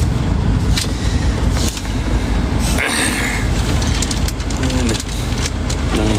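Steady low rumble of a moving vehicle heard from inside, with a short hiss about three seconds in and brief snatches of voice near the end.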